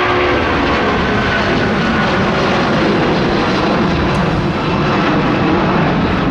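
Jet airliner's engines at close range: a loud, steady rush with faint whining tones, one of them sinking slightly in pitch over the first couple of seconds.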